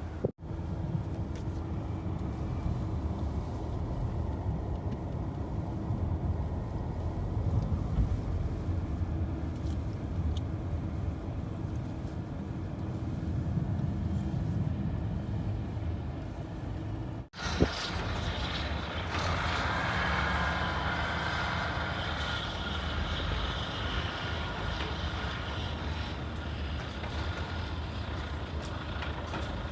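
Motor vehicle engine running with a steady low rumble, cut off briefly twice by edits; after the second cut, more hiss and faint higher tones join in.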